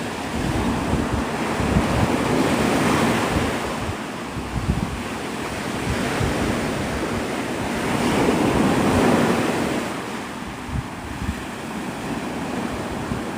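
Surf breaking and washing on a beach, swelling up twice and easing off, with wind buffeting the microphone.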